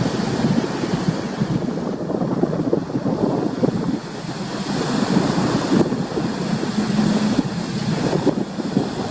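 Heavy storm surf from approaching typhoons breaking and rushing on the beach, in a continuous churning wash. Strong wind buffets the microphone throughout.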